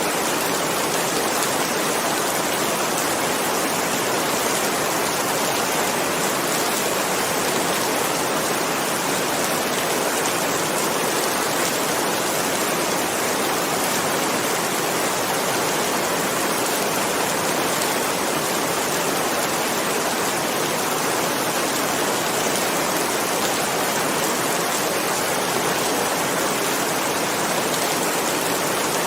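Steady heavy rain falling: a dense, even hiss with no single drops or thunder standing out.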